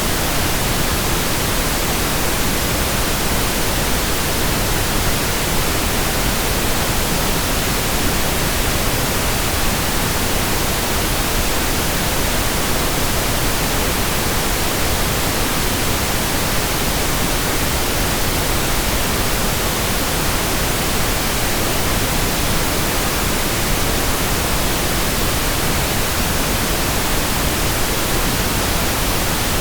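Steady synthetic pink noise: an even hiss spread across all pitches, unchanging throughout.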